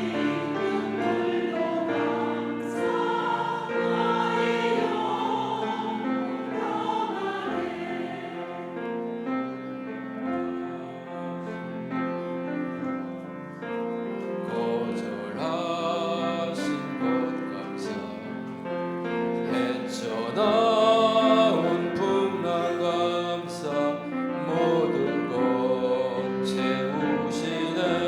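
Church choir singing an anthem in sustained chords, swelling louder about two-thirds of the way through.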